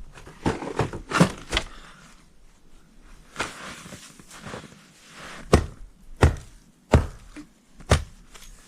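Split firewood logs being thrown down onto a pile: a string of sharp wooden knocks, about eight in all, irregularly spaced and coming faster in the second half, with rustling between them.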